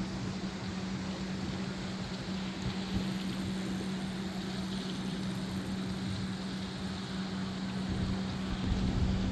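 A steady engine hum, one low even tone held throughout, over a wash of open-air noise.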